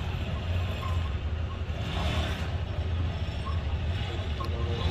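Cruiser-style motorcycle engine running at low revs as the test rider moves off from the start, a steady low rumble.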